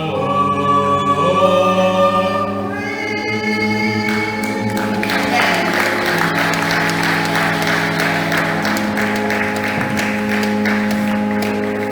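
Choir singing held chords near the end of a piece, then applause breaks out about four and a half seconds in while a last chord rings on underneath.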